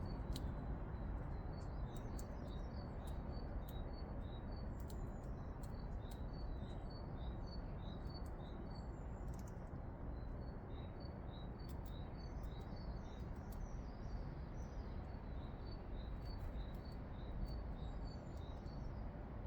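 Small garden birds chirping, many short high calls in quick succession, over a steady low rumble of outdoor background noise, with a few sharp clicks.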